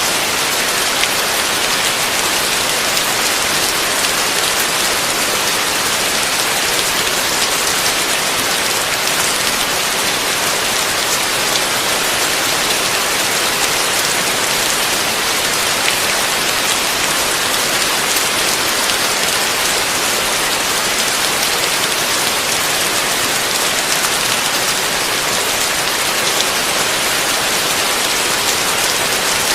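Heavy rain falling steadily on a roof: a dense, even hiss of drops with no thunder.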